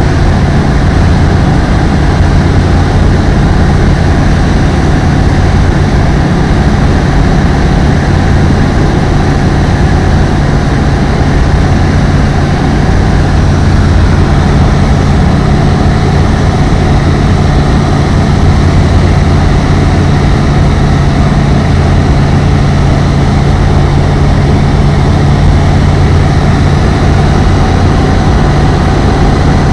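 Apollo Fox ultralight aeroplane's engine and propeller running steadily, a loud, unchanging drone with no change in pitch.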